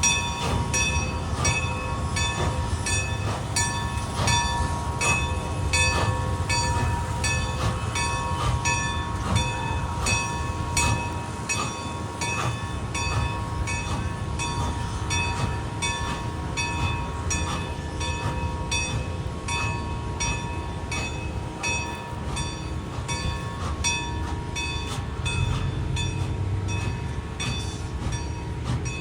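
A train rolling past, with a steady low rumble and a regular clicking about twice a second, plus a thin steady high ringing tone.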